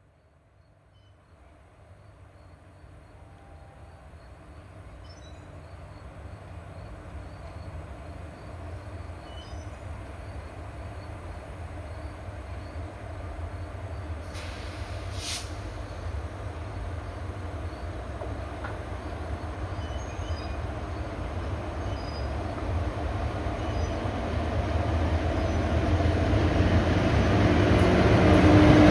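A train approaching, its rumble growing steadily louder from faint to loud. About halfway there is one brief high-pitched sound.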